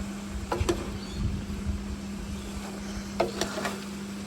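Kitchen sounds during frying: a steady low hum with a few light clicks and knocks, twice in short clusters.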